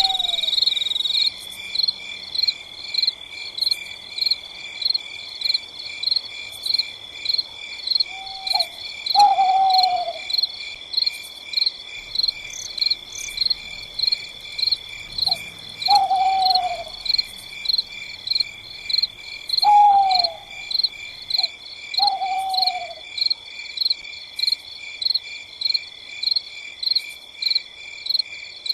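A night insect chorus of crickets, steady and evenly pulsing at a high pitch. Over it, an animal, likely an owl, gives a short falling hoot several times.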